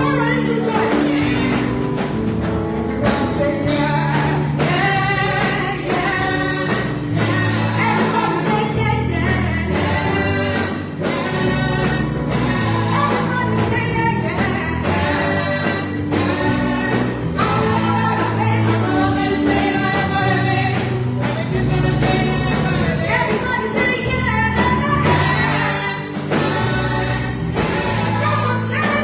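Gospel music: a choir singing over instrumental accompaniment, with a bass line and a steady beat.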